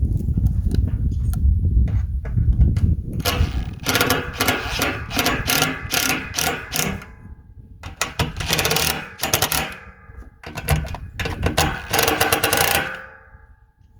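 A power drill working into the thin sheet metal of a deer feeder drum and cone: a low rumble at first, then three runs of rapid chattering strokes with the metal ringing, stopping just before the end.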